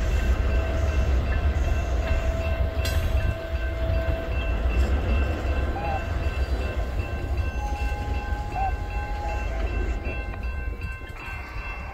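Loaded freight train of tank cars and hopper cars rolling through a grade crossing: a steady low rumble of steel wheels on rail, with thin steady high tones above it. It eases off slightly near the end.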